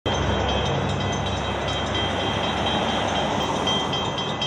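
CSX freight train rolling past on the rails: a steady, loud rumble of wheels and cars, with a low engine hum at the start and a thin, steady high-pitched ringing over it.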